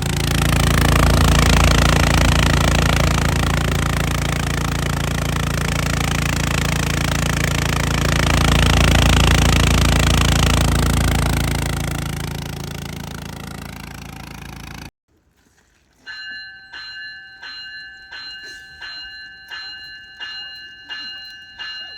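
A train passes with a loud, steady rumble of engine and wheels. It swells twice and fades away before cutting off. After a moment of silence, a railroad crossing bell rings steadily, about one strike every 0.7 s.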